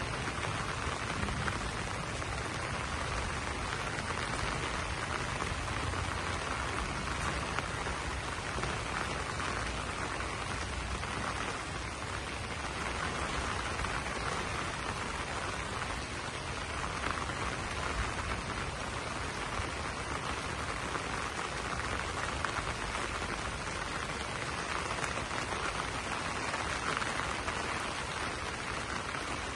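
Steady rain falling on banana leaves: a dense, even hiss of many drops.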